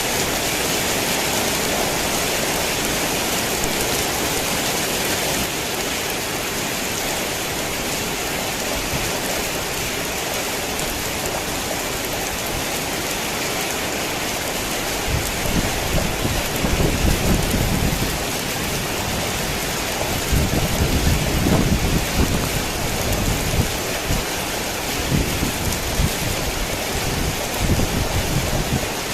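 Heavy rain falling steadily in a dense hiss, with low thunder rumbling in from about halfway through and rolling on, swelling and fading, to near the end.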